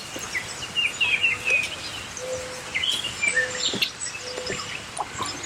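Birds chirping with many short, repeated calls, along with a few brief low steady notes.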